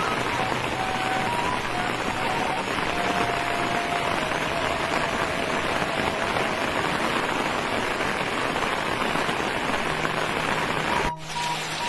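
Steady rain pattering on a surface, with a faint flute (seruling) melody of long held notes playing over it. The rain dips briefly near the end.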